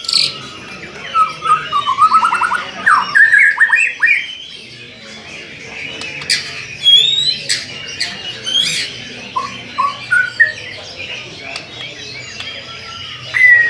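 White-rumped shama (murai batu) singing a varied, continuous song of whistles, rising slurs and a fast run of repeated notes in the first few seconds, with scattered shorter phrases after.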